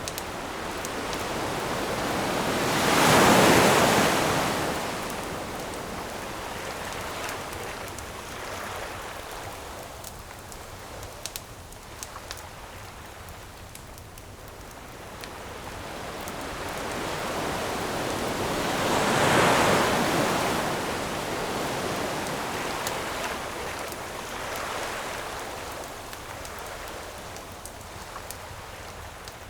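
Ocean waves washing onto a shore, two of them swelling and breaking about sixteen seconds apart, with small sharp crackles of a wood campfire scattered throughout.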